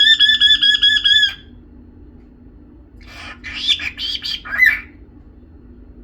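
Cockatiel whistling a fast run of about eight quick, high, warbling notes. About two seconds later it gives a burst of scratchy chatter lasting a couple of seconds.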